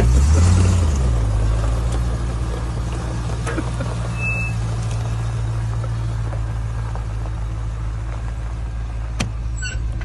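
Range Rover V8 idling steadily, with a short blip of revs in the first second. The engine's vibration is shaking the open bonnet. A single sharp click comes near the end.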